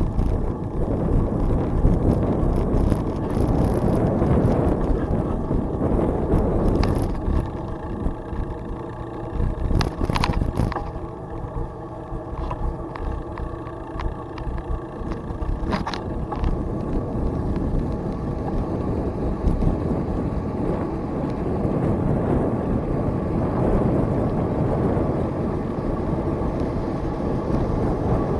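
Riding noise from a bicycle in motion: wind buffeting the microphone over the hum of tyres and drivetrain, with a few sharp rattles or clicks about a quarter, a third and halfway through.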